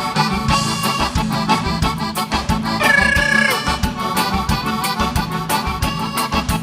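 Live gaúcho dance band playing an instrumental passage led by a piano accordion, over bass and a steady drum beat.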